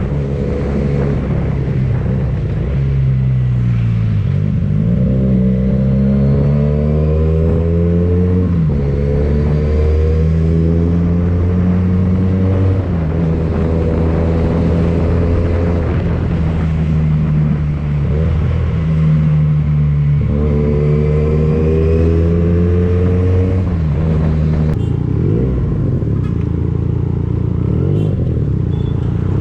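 Benelli TNT 249S motorcycle engine running through a Tridente F22 carbon aftermarket exhaust, revving under acceleration. Its pitch climbs and then drops sharply several times, as at gear changes.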